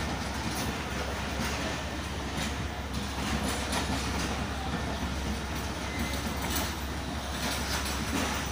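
Pakistan Railways passenger coaches of the Millat Express rolling past the platform as the train arrives, with a steady noise of wheels running on the rails and light clatter over the rail joints.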